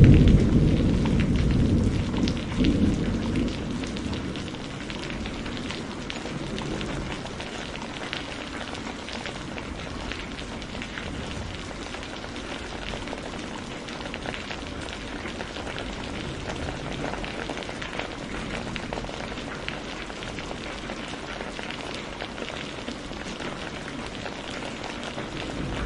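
Steady rain falling, a dense even hiss speckled with the ticks of individual drops. A low rumble of thunder fades out over the first few seconds.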